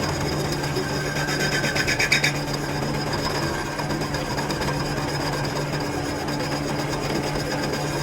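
Metalworking in a workshop: a steady machine hum under a fast, continuous rasping, briefly brighter and louder about one to two seconds in.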